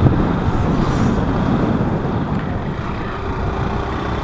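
Honda NXR 160 Bros motorcycle's single-cylinder engine running, with wind buffeting the microphone.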